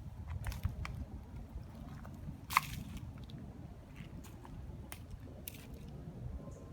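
Footsteps crunching over dry litter and plastic debris: scattered crackles and snaps, one sharper about two and a half seconds in, over a low rumble on the microphone.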